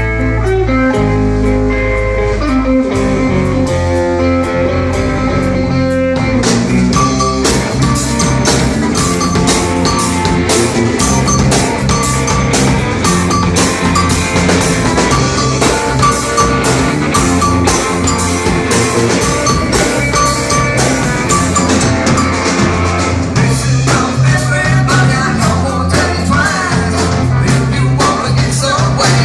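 A rock band playing live: the song opens on guitar and bass alone, then the drum kit comes in about six or seven seconds in and the full band plays on with a steady beat.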